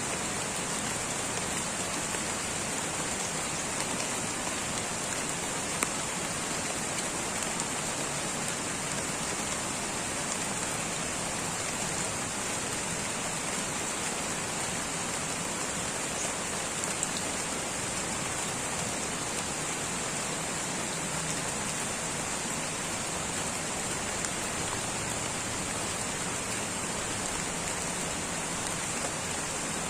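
Light rain falling steadily on rainforest foliage: an even patter with the odd louder drop ticking out of it.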